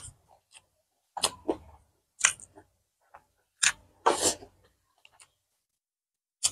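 Close-miked eating sounds: short, wet chewing smacks and lip clicks from a mouth full of rice and braised pork intestine. They come as about half a dozen separate smacks, irregularly spaced, with quiet between them.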